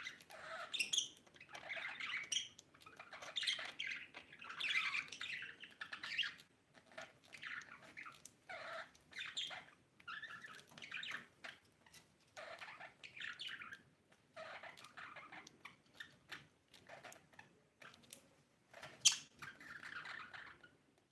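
Budgies chirping and squawking in quick clusters of short calls, broken by brief pauses, with one sharper, louder call about nineteen seconds in.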